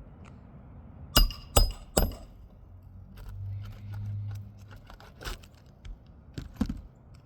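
Three quick hammer strikes with a metallic ring, a little under half a second apart, then a few lighter knocks near the end, as roof shingles are nailed or knocked into place.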